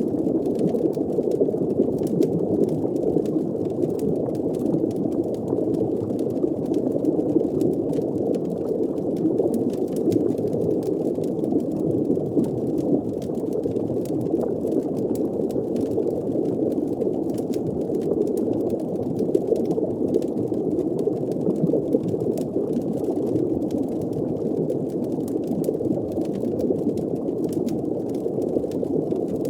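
Muffled underwater ambience: a steady, deep bubbling wash with faint, scattered crackles over it.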